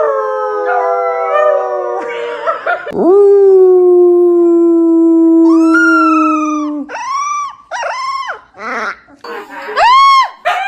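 A dog howling and "talking": a long, slowly falling howl of about four seconds, followed by several short howls that rise and fall, given in answer to being coaxed to say "mama".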